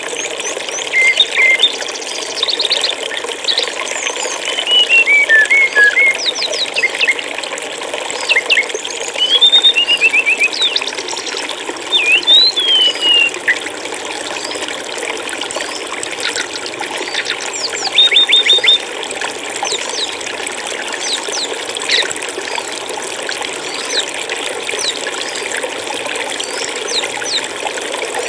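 Steady running water, like a trickling stream, with small songbirds chirping and whistling short quick notes over it. The notes are thickest through the first two-thirds and thin out to scattered chirps near the end.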